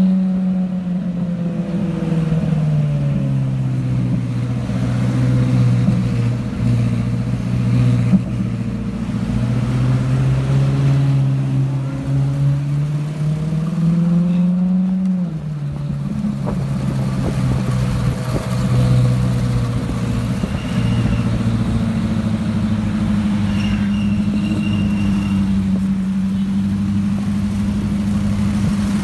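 Ferrari 458's V8 through an aftermarket FI Exhaust, running at low revs in slow traffic. The note rises and falls, climbs, then drops sharply about halfway through as it shifts up, and holds steady after that, over street traffic noise.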